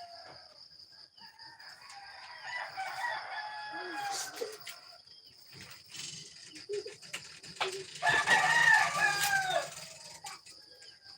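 Roosters crowing: a fainter crow about two seconds in and a louder one about eight seconds in.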